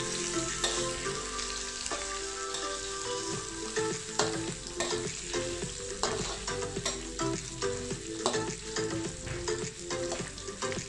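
Shallots, garlic and ginger sizzling in hot oil in an aluminium wok while a metal spatula stirs them, scraping and clicking against the pan many times.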